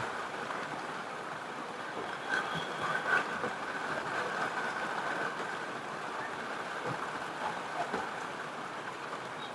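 Heavy rain falling steadily, with a few faint crackles of a wood fire scattered through it.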